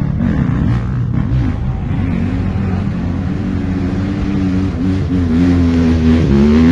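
Off-road motorcycle engine running under way, its revs wavering up and down, holding steadier for a stretch, then dropping and climbing again near the end.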